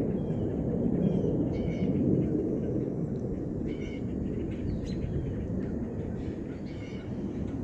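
Small birds chirping briefly every couple of seconds over a steady low rumble outdoors.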